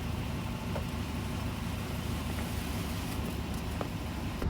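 Car engine idling, a steady low hum, with a few faint clicks.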